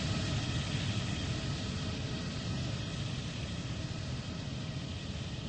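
Jet airliner engines rumbling after takeoff with a faint steady whine, slowly fading as the plane climbs away.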